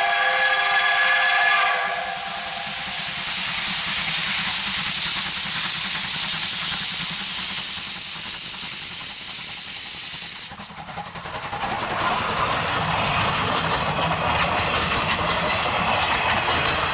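Steam whistle of the C12 66 steam locomotive, several tones sounding together, ending about two seconds in, followed by a loud, steady hiss of escaping steam that cuts off suddenly about ten seconds in. After that comes a rougher, lower noise of the locomotive running.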